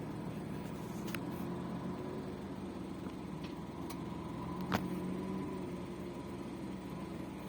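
Scania 140's V8 diesel engine running steadily under load as the truck tries to pull free from the mud. A sharp click a little past halfway.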